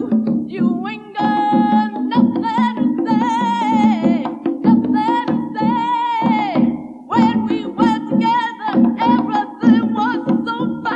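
A woman singing live with a band, holding long wavering notes over a rhythmic bass and percussion accompaniment.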